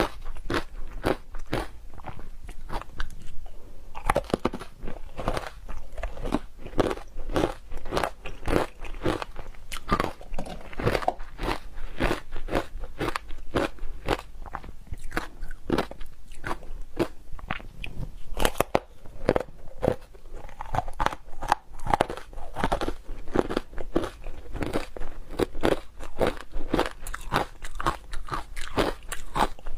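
Ice with matcha being bitten and chewed: a dense, irregular run of crunches and crackles, several a second, with no pause.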